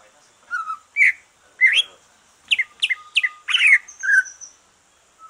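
A green leafbird (cucak ijo) singing a lively phrase of short chirps and quick whistled up-and-down sweeps, with a fast run of sharp notes in the middle. The bird has just finished its moult.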